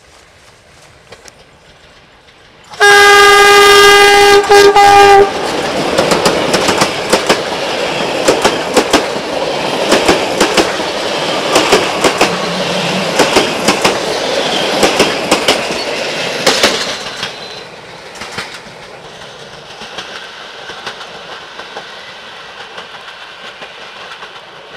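A CFR Sulzer (060-DA) diesel-electric locomotive sounds one long horn chord with a brief break near its end. Its passenger train then passes close by, the wheels clicking rapidly over the rail joints, and the sound fades as it rolls away in the last several seconds.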